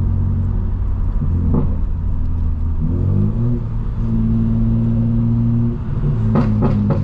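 Straight-piped BMW M4 Competition's twin-turbo inline-six running at low revs under light throttle. About three seconds in its pitch steps up as it accelerates, holds steady, then falls back near the end.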